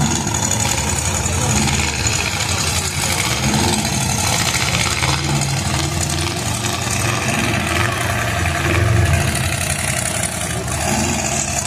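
Several demolition derby cars' engines running and revving together, loud and steady.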